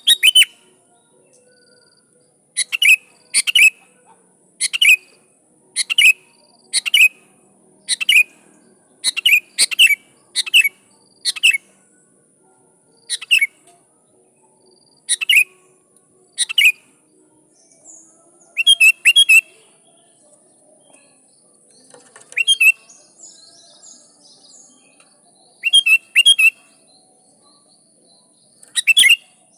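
Sooty-headed bulbul (kutilang) calling: a run of short, loud chirping notes about one a second, breaking into quick pairs of notes in the second half with short pauses between. This is a bulbul in full song, calling out to rival bulbuls.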